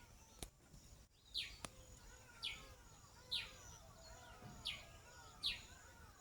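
A bird calling a short, high, falling note about once a second, with fainter twittering in the background. Two sharp clicks sound in the first two seconds.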